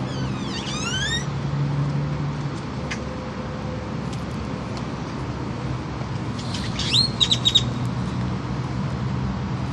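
Birds calling: a quick run of gliding chirps about half a second in, then four loud, sharp chirps about seven seconds in. A steady low hum of traffic runs underneath.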